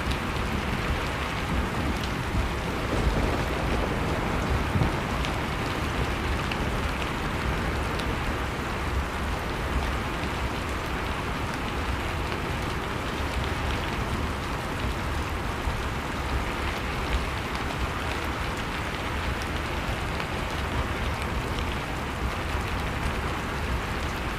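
Wood fire crackling with scattered small pops over the steady rushing noise of blizzard wind.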